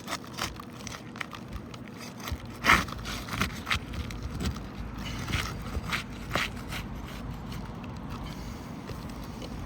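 Hand tools scraping and prying at asphalt roof shingles to work the nails loose, in scattered short scrapes and clicks, the loudest about two and a half seconds in. A steady low rumble comes in after about two seconds.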